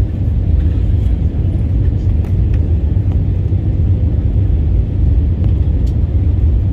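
Steady low rumble of an Airbus A320's engines and airflow, heard inside the passenger cabin in flight.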